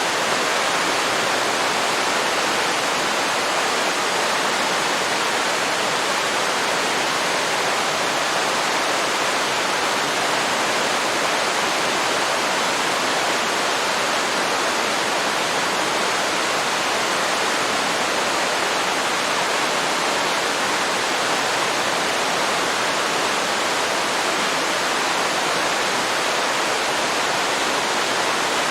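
Waterfall: a steady, unbroken rush of falling water, even hiss with no breaks or changes.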